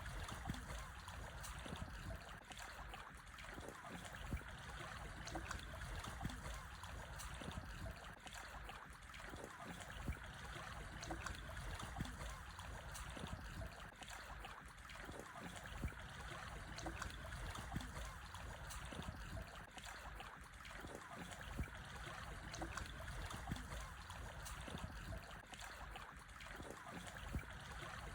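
Calm, small sea waves lapping and trickling over black stones on a shore, a steady wash with many small splashes and drips.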